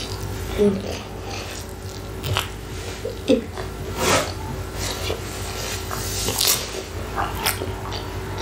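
Close-miked chewing and wet mouth smacks from a mouthful of peri-peri chicken, with irregular clicks throughout and two brief low hums, about half a second and three seconds in.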